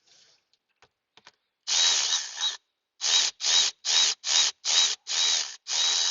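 Power drill-driver running a fastener in short trigger pulls. There is one longer run about two seconds in, then seven quick bursts, the motor's whine dipping and recovering in each as it loads.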